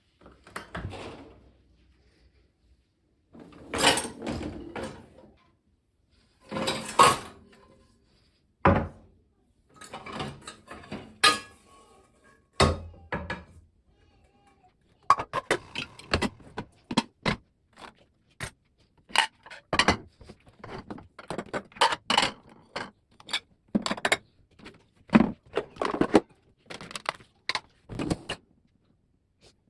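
Household objects being handled and set down: a string of knocks, clicks and clatters, with a few longer rustling or scraping sounds in the first half.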